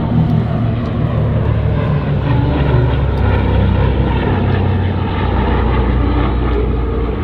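C-47 Dakota's twin Pratt & Whitney R-1830 radial engines and propellers droning steadily as the aircraft flies a display pass.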